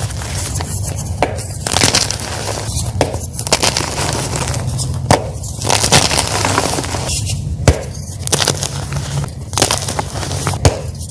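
Ader gym chalk blocks being crushed: dense gritty crunching and crumbling with many sharp cracks and snaps, coming in squeezes with brief lulls between them.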